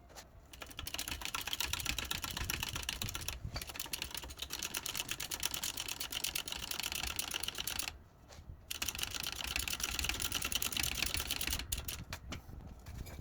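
Fast, even mechanical clattering, like a hand-held power tool hammering or cutting, in two long runs with a pause of under a second about eight seconds in.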